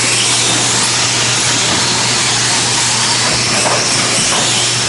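A pack of 2WD modified electric short course RC trucks racing at speed: a steady, dense whine of brushless motors and drivetrains, rising and falling as the trucks accelerate and brake.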